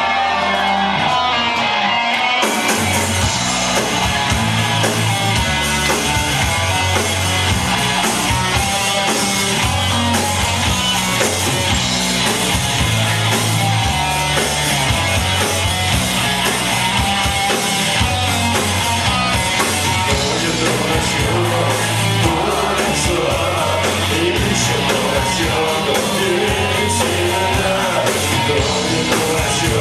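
Live rock band playing loud: a guitar-led passage, with the drums and bass coming in about two seconds in and running on in a steady driving beat.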